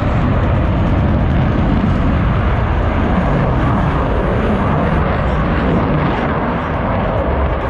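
Loud, steady jet noise from Blue Angels F/A-18 Super Hornets, their twin turbofan engines running at show power in flight.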